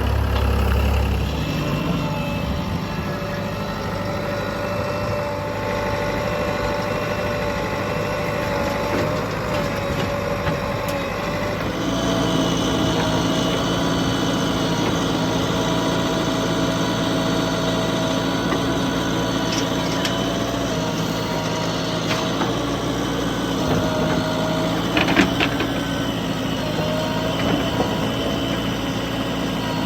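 Diesel engines of earthmoving machinery and tractors running steadily; the engine note shifts abruptly about twelve seconds in. A few short knocks come late on.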